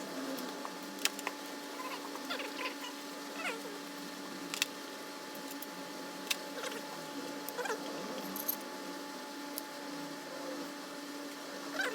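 Scattered light clicks and clinks of hand tools and engine parts during top-end disassembly of a Honda CRF250L engine, with a few short squeaks, over a steady low hum.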